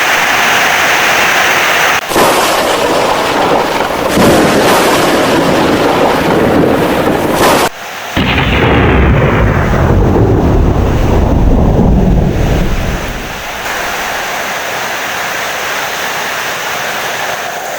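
Heavy rain with loud rolling thunder. Midway, the thunder swells into a deep rumble, then dies away about two-thirds of the way in, leaving steady rain.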